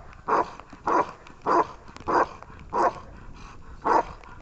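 A dog barking steadily, six short barks about 0.6 s apart with a brief pause before the last.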